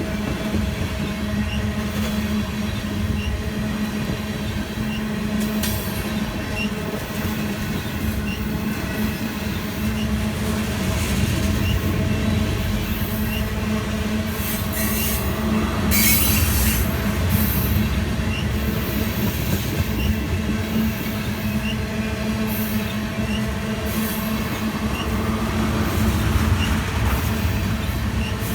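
Freight train of tank cars rolling by, wheels squealing and clacking over the rails, with a steady low hum underneath. The squeal grows loudest about halfway through and again near the end.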